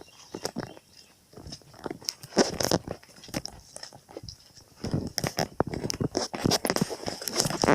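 Irregular clicks, crunches and rattles of a bird feeder being handled and filled with seed.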